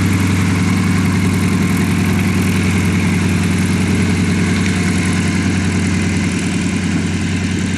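Aircraft engine running at a steady speed: a loud, even, low drone with a constant pitch, easing off slightly near the end.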